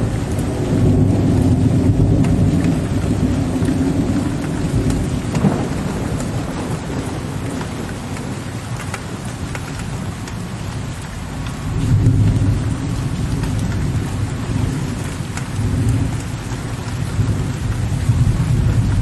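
Steady rain with low, deep thunder rumbling in waves: a rumble in the first few seconds that fades through the middle, then swells again about twelve seconds in and once more near the end.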